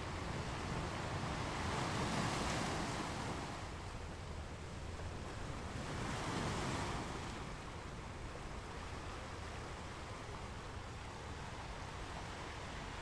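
Sea waves washing and splashing, with wind on the microphone; two louder surges of water about two and six seconds in.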